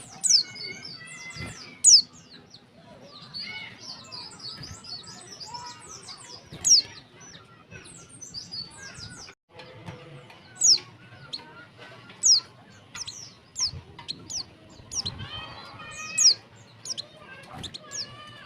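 Female white-eye (pleci) calling: sharp, high, downward-sweeping chips every second or two, with softer chattering between them. This is the female's call that bird keepers play to rouse male white-eyes into singing.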